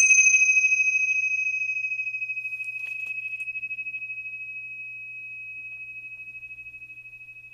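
A bell struck once, ringing on with one clear high tone that slowly fades and pulses with a steady beat, its higher overtones dying away within the first few seconds. It is the bell rung to mark the end of the meditation session.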